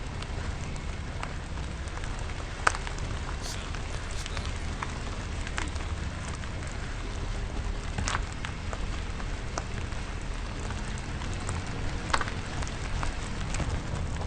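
Car tyres rolling over gravel: a steady crunching with a low rumble underneath and scattered sharp pops of stones, the loudest about three seconds in and again near the end.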